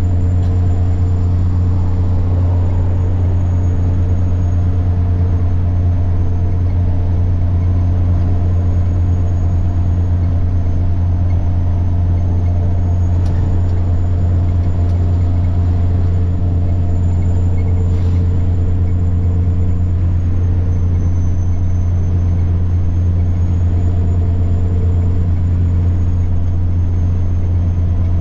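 Semi truck's diesel engine droning steadily at cruise, heard inside the cab, with a high, thin turbocharger whine above it that drifts slightly up and down in pitch.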